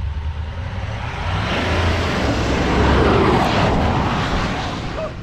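A car's engine drones under a rushing noise that swells to its loudest about three seconds in, then fades away.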